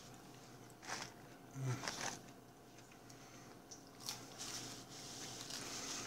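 A man chewing and biting fast food close to the microphone, with a few short wet mouth noises about one, two and four seconds in.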